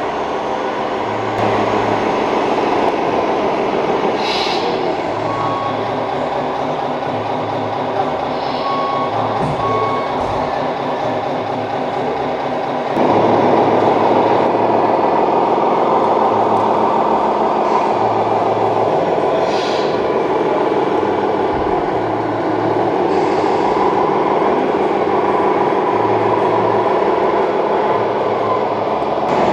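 Scale RC truck sound modules playing a simulated diesel truck engine, with a few short reversing beeps and brief air-brake-like hisses; the engine sound gets louder about halfway through.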